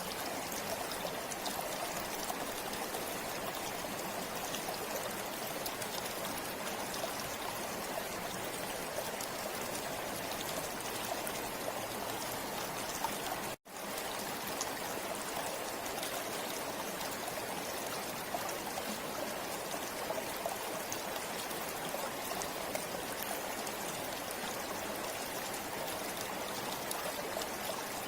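River water flowing and rushing steadily over stones, an even, unbroken wash of sound. The sound drops out for a split second about halfway through and then resumes unchanged.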